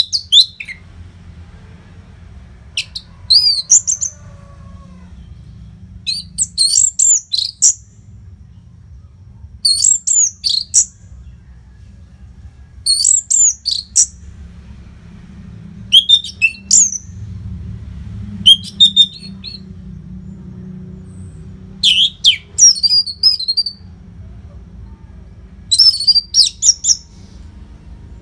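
Orange-headed thrush singing: short bursts of rapid, varied high whistled notes every few seconds, over a steady low hum.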